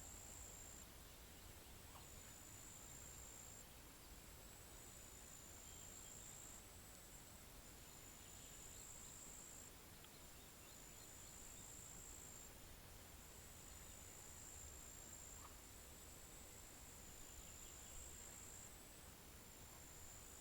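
Faint, high-pitched insect trill in phrases of about a second or so, repeating with short gaps, over a low rumble.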